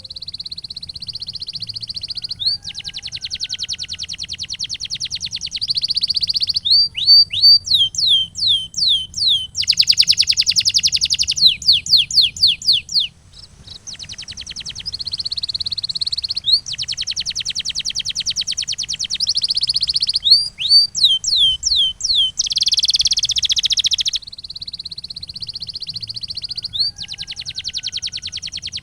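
Domestic canary singing a long song: fast rolling trills alternating with runs of quick downward-sweeping whistled notes, with a brief break about halfway.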